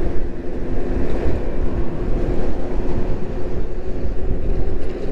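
Wind buffeting the microphone of a rider on the move on an electric moped, a loud gusting rumble with a faint steady hum under it.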